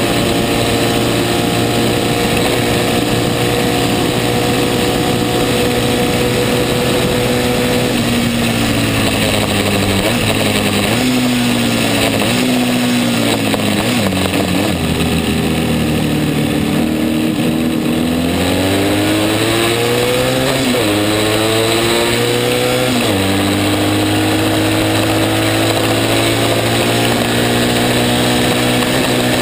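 Racing motorcycle engine heard from on board, held at high revs, then dropping in steps as the rider shifts down into a corner. It pulls back up through two upshifts and settles on a steady high note, with wind rush throughout.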